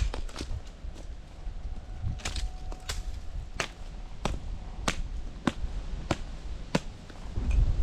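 Wood being chopped with a blade, a branch struck again and again in sharp, regular blows about every two-thirds of a second.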